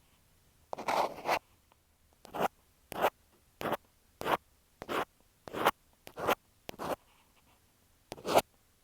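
Ear pick scraping over an earphone microphone in short, scratchy strokes, roughly one every half second to second, with a brief pause near the end.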